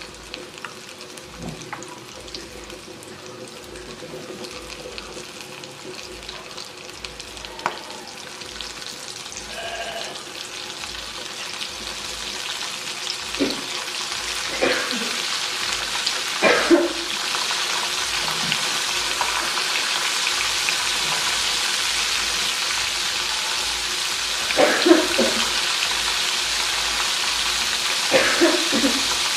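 Flour-coated shrimp deep-frying in hot oil: a steady sizzling hiss that grows louder as more pieces fill the pan. A few short scrapes and knocks of a spatula against the pan come in the second half.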